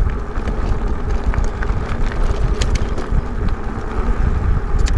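Wind buffeting the microphone of a moving e-bike in a steady, loud rumble, with scattered short clicks and rattles from the bike riding over rough road.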